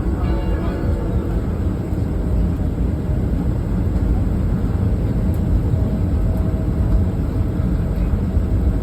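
Steady low rumble of cabin noise inside a Boeing 737-900ER, from its CFM56-7B jet engines and airframe as the airliner readies for takeoff.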